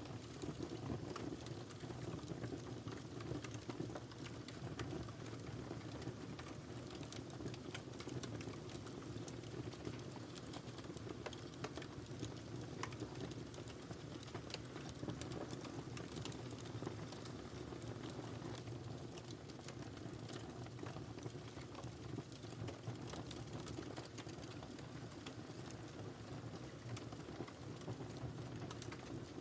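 Wood fire crackling steadily, with frequent small irregular pops and snaps over a low rumble of burning.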